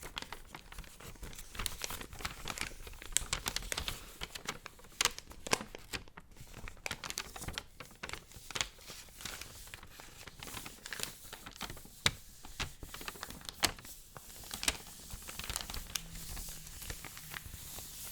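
Paper being handled close to the microphone: crinkling and crackling with occasional tearing, in quick irregular crackles.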